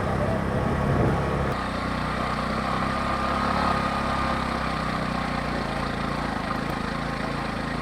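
Motor vehicle engine running steadily while on the move, its tone shifting about a second and a half in.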